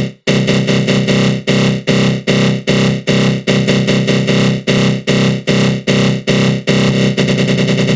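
Synthesizer 'attack growl' sound effect with a flanger effect: a dense growling tone pulsing about two and a half times a second, running on with a faster flutter near the end.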